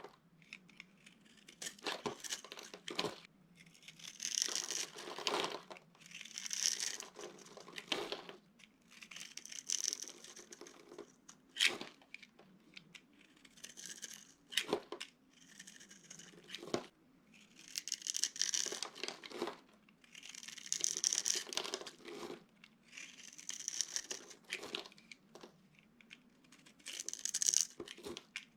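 Brittle, crumbly material being crushed, crunching and crackling in repeated bursts every couple of seconds, with a few sharp snaps about halfway through.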